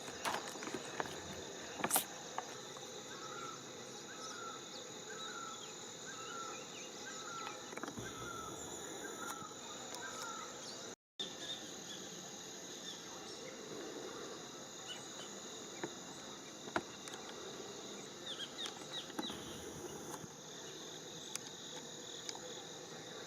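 Steady high-pitched chorus of insects, crickets among them, with scattered light clicks. In the first half a short chirp repeats about ten times, and the sound cuts out for an instant about eleven seconds in.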